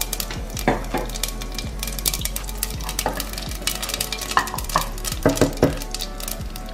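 Cumin seeds sizzling and popping in hot oil in an aluminium pressure cooker. A wooden spatula scrapes the metal bottom a few times as the seeds are stirred.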